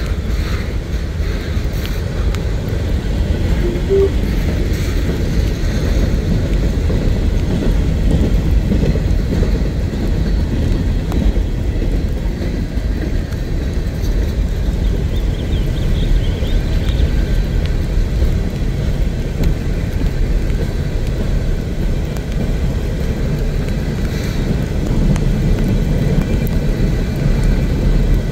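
Freight cars of a CSX manifest train rolling past, their wheels running on the rails in a steady low rumble.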